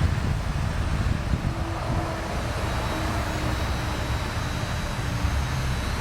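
Steady low rumble of outdoor background noise, like wind and road traffic, with a faint hum for a few seconds in the middle.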